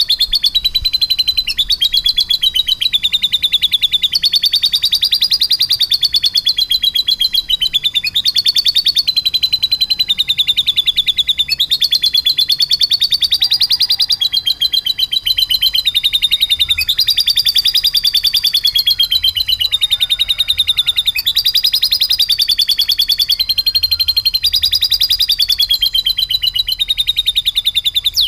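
Domestic canary singing one long, unbroken rapid trill in the style of a lovebird's chatter, its pitch stepping slightly up or down every few seconds.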